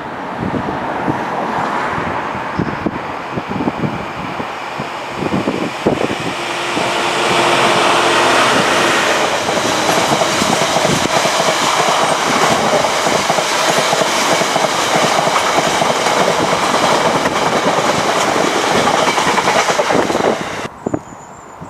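A train passing close by, its wheels clattering over the rail joints. It grows louder over the first several seconds, runs steady and loud, then cuts off abruptly near the end.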